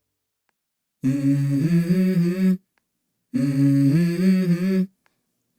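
A low voice humming a short melody whose pitch steps up and down, in two phrases with a pause between.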